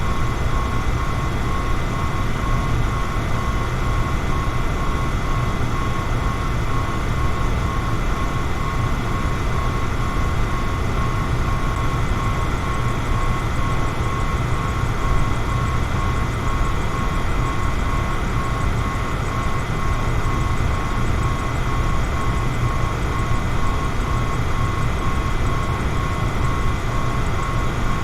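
Electric fan running steadily: a constant low hum with airy rushing and a faint steady whine.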